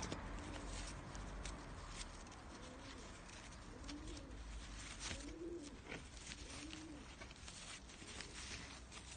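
Faint bird cooing: a repeated series of low calls, each rising and falling, from a few seconds in until near the end, with scattered short rustles and clicks.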